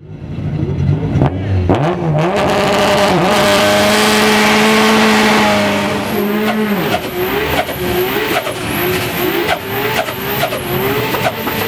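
Turbocharged drag car doing a burnout: the engine revs up in quick blips, holds steady at high revs for about three seconds, then rises and falls about twice a second, with a high whistle rising on each rev.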